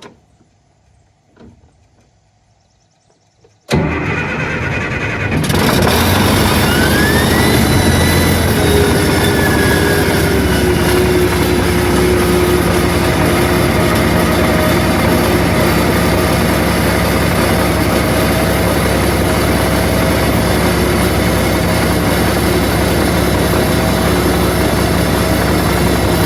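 A few seconds of near quiet, then the Caterpillar D6C dozer's D333 six-cylinder diesel comes in loud and abrupt about four seconds in, builds again a moment later with a rising whine, and settles into a steady heavy run.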